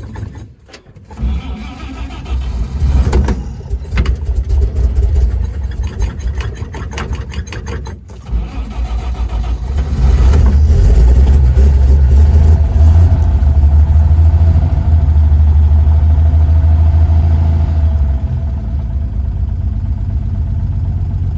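A 1953 Chevrolet 3600 pickup's straight-six engine starting up and running unevenly, then revved and held high from about ten seconds in before settling back to a steadier idle near the end. The owner suspects the carburetor still isn't getting enough fuel.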